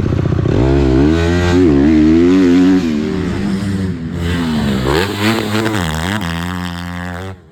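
Motocross dirt bike engine revving up and down as it is ridden, its pitch rising and falling with throttle and gear changes. Cuts off suddenly near the end.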